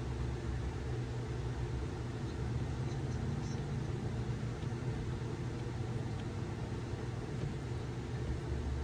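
Fireplace-and-library ambience: a steady low rumble with a few faint, scattered crackles.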